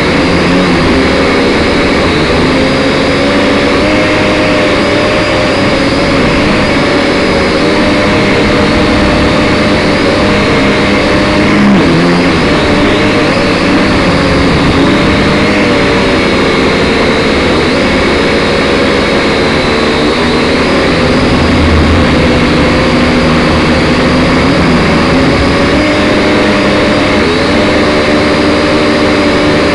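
Syma X5SC quadcopter's motors and propellers whining close by, their pitch rising and falling continually as the throttle changes.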